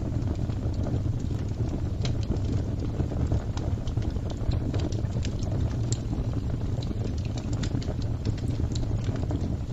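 Wood fire crackling: a steady low rumble of flames with frequent, irregular sharp pops and snaps.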